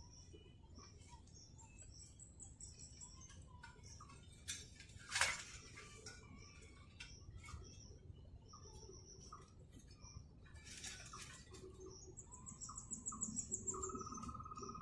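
Wild birds singing: a steady series of short, high repeated chirps with a couple of fast high trills. A sharp click about five seconds in is the loudest moment, and a brief clatter comes around eleven seconds.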